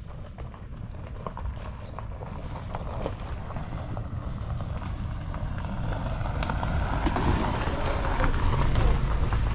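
A car approaching slowly along a sandy dirt road, its engine and tyres getting steadily louder as it nears, loudest near the end.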